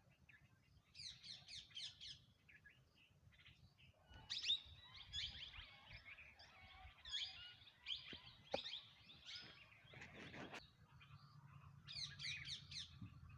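Several small birds chirping and calling over one another, quietly. A quick run of high chirps comes about a second in and again near the end, with busier overlapping calls in the middle and a brief rustle at about ten seconds.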